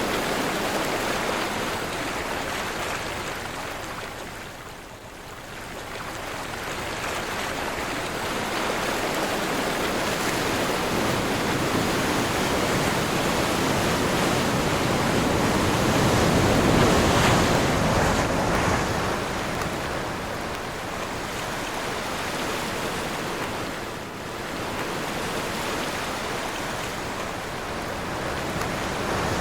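Sea surf on a windy day: waves rushing in and washing back as a continuous roar of noise. It fades twice, early and again late, and swells loudest a little past the middle.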